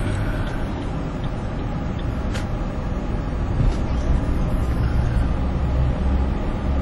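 Steady low rumble of heavy highway traffic: the engines and tyres of big trucks and other vehicles close by, with a short sharp click about two and a half seconds in.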